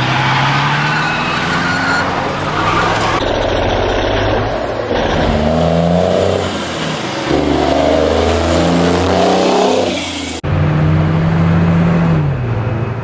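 Car and truck engines revving, their pitch rising and falling, in several clips cut together with abrupt changes about three, five and ten seconds in.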